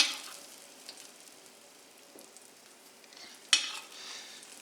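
Breaded chicken cutlets sizzling in butter and olive oil in a skillet. The sizzle flares up sharply at the start and again about three and a half seconds in, as cutlets are laid into the hot fat, then settles to a quieter hiss.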